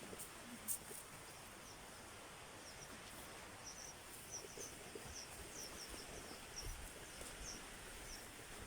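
Quiet outdoor ambience with a steady hiss. A small bird gives short, high chirps again and again, and a brief low rumble comes near the end.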